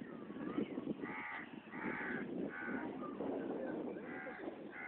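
Birds giving harsh, crow-like cawing calls, about five in a row, over a steady background noise.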